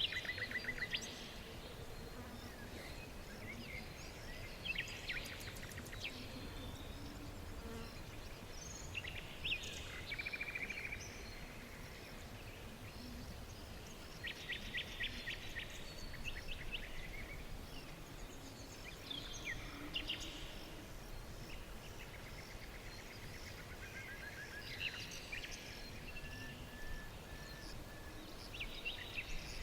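Small songbirds chirping and trilling in short bursts and rapid repeated notes, several calls overlapping, over a steady low background rumble.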